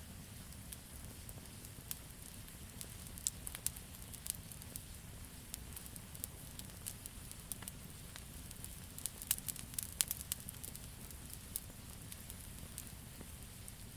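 Wood campfire crackling: irregular sharp pops and snaps, thickest about three to four seconds in and again around nine to ten seconds in, over a steady low rumble.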